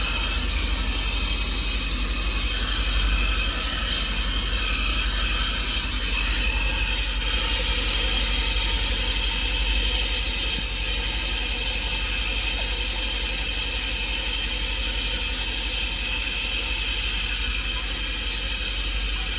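Car wash equipment hissing steadily and loudly, growing a little brighter about a third of the way in.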